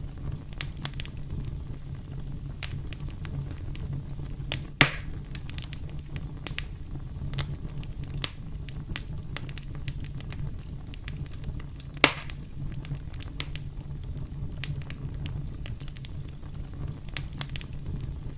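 Campfire crackling: a steady low rumble of burning wood with many small scattered crackles and two louder, sharper pops, about five seconds in and again about twelve seconds in.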